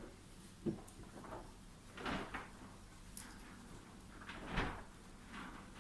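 A few faint knocks and rustles of small bicycle hub parts being handled: three short sounds, about a second in, around two seconds in, and the loudest near the end.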